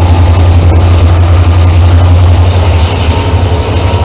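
Freight train passing close by, a loud, steady low rumble with a wash of rail noise over it.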